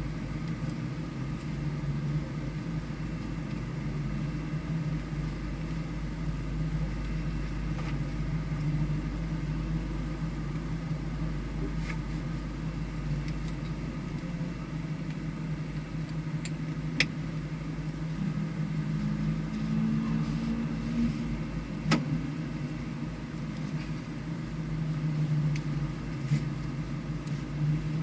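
Vehicle engine running steadily at low revs, with no strong revving, and a couple of sharp clicks, one about two-thirds of the way in and another some five seconds later.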